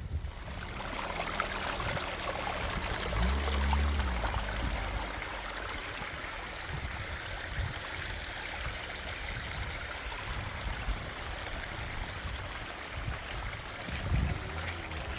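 Heavy rain pouring down, a steady rush of water, with a brief low rumble about three seconds in.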